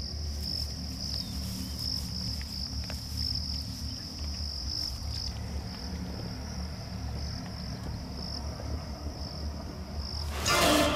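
Insects trilling: one steady, high, faintly pulsing note over a low background rumble, with a short loud rush of noise near the end.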